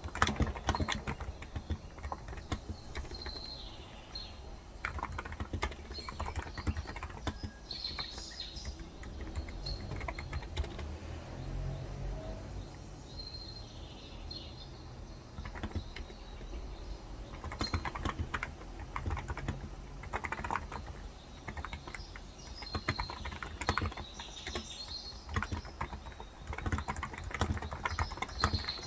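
Typing on a Cox Endeavor 35 g electrostatic capacitive (Topre-style) tenkeyless keyboard, in irregular bursts of keystrokes with a quieter pause around the middle. Birds chirp in the background.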